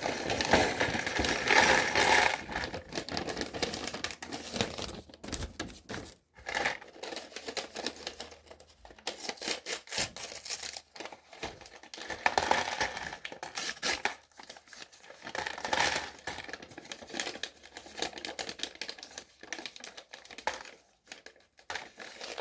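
Plastic LEGO parts bag crinkling and small plastic LEGO pieces clicking and clattering against each other in irregular bursts as they are tipped out and handled.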